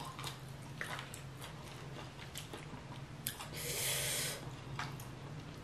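Close-miked mouth-eating sounds from a person eating spicy fire noodles: soft wet chewing with scattered small clicks. About three and a half seconds in there is an airy hiss lasting about a second.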